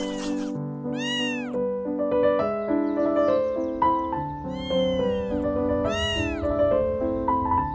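A kitten meowing three times, each meow rising then falling in pitch, over soft background music with held, piano-like notes.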